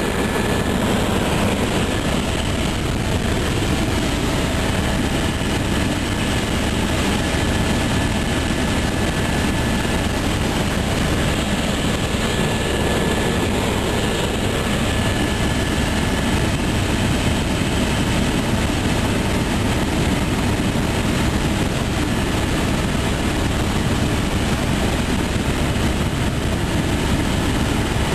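Helicopter in flight, heard from inside the cabin: steady engine and rotor noise with a faint steady whine above it.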